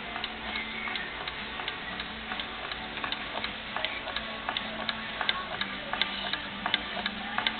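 Small dual-crankshaft engine with a timing belt running, making quick, irregular sharp clicks over a faint steady hum.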